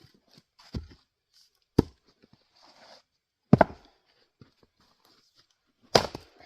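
Adirondack single-bit axe chopping firewood on a chopping block: four sharp blows one to two and a half seconds apart, the last three loud.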